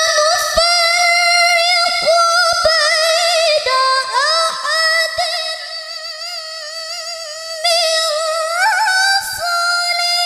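A woman reciting the Quran in the melodic qiroah style. She holds one long, high phrase, ornamented with small wavering turns and slides, and it falls away at the very end.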